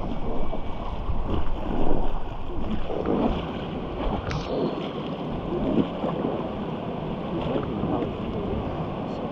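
River water rushing around a raft, with wind buffeting the microphone.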